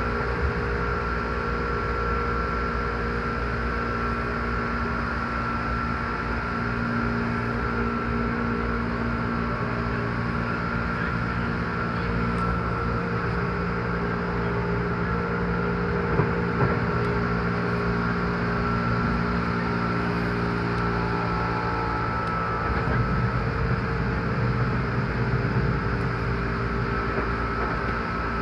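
Seibu 10000-series limited express train running at speed, heard from inside the passenger cabin. A steady rumble of wheels and running gear carries a steady hum, with a couple of small knocks about halfway through and a deeper hum swelling near the end.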